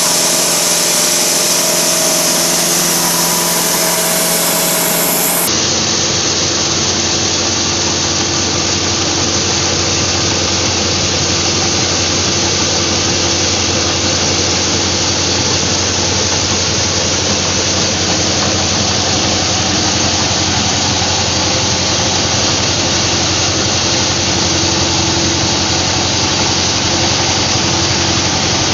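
Rice milling machine running steadily: a continuous engine-driven mechanical drone with a dense hiss of grain going through the mill. The tone changes abruptly about five seconds in.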